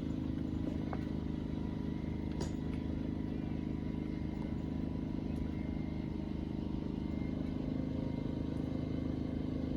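A vehicle engine idling steadily, a low, even hum with no change in speed.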